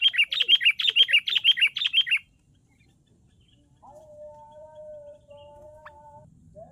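Sooty-headed bulbul (kutilang) giving a rapid run of sharp chirps, about four a second, that stops about two seconds in. From about four seconds in, a faint steady humming tone.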